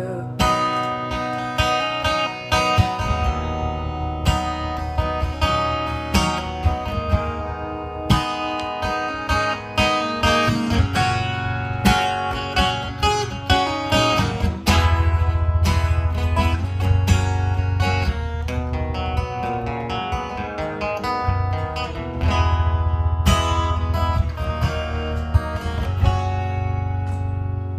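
Acoustic guitar music without singing, strummed and picked notes over a steady low bass.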